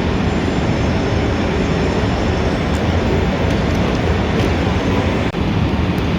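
Steady city traffic ambience: a dense low rumble of vehicles with a hiss of tyres and engines, and a brief dip just after five seconds.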